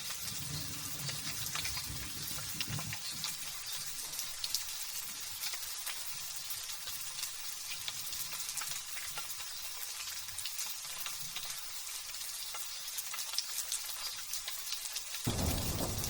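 Light drizzling rain: a steady hiss of fine, crackling drops. A faint low rumble sits under it in the first few seconds, and shortly before the end the sound suddenly turns fuller and a little louder.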